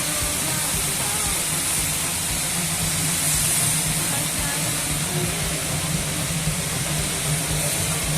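Steady vehicle noise: a low engine hum under a constant hiss.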